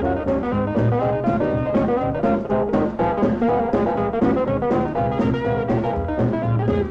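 Instrumental break of an upbeat 1950s jazz/swing song: a brass section with trombone over a driving drum kit.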